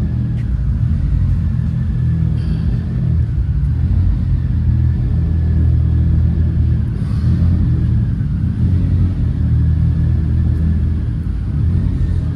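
A car engine running steadily at idle: a continuous low rumble.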